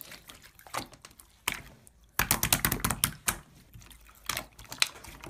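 Irregular clicks and taps, with a dense flurry of them lasting about a second, starting about two seconds in.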